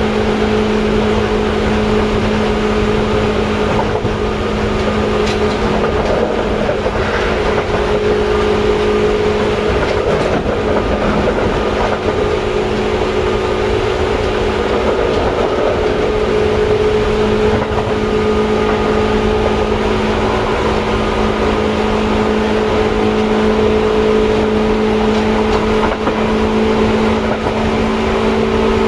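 Seibu 2000 series electric train heard from inside a car: a steady hum of two held tones over a continuous low rumble of running noise.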